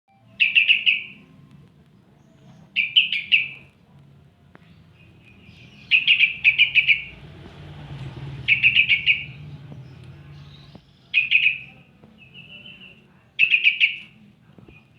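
Yellow-vented bulbul calling in short bursts of rapid chattering notes, about six bursts a couple of seconds apart.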